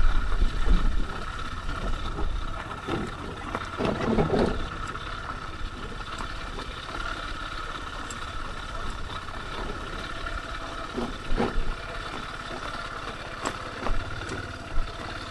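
Kymco KTR 150 motorcycle engine running steadily at low speed during a slow ride, with a few short knocks.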